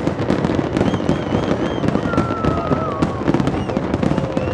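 Fireworks display firing in a dense barrage: many bangs and crackles overlapping with no gap, and a few thin wavering whistles over the top.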